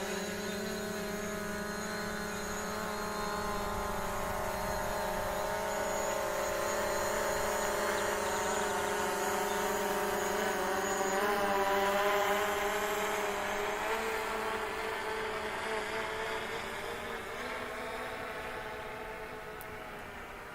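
DJI Mavic Pro quadcopter's propellers and motors giving a steady buzzing whine with a slight waver in pitch as it flies, heard from the ground. The whine grows a little louder towards the middle, then slowly fades as the drone moves away.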